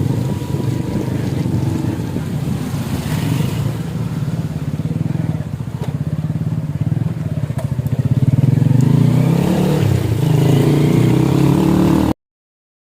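Vehicle engine running on the road, a steady low drone whose pitch rises and falls in the last few seconds, then the sound cuts off abruptly.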